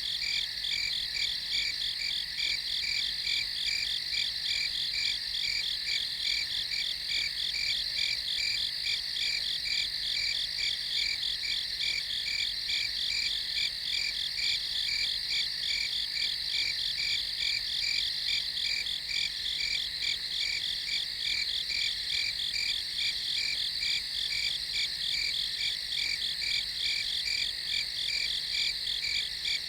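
Night chorus of crickets chirping in a steady, pulsing, high-pitched drone that goes on without a break.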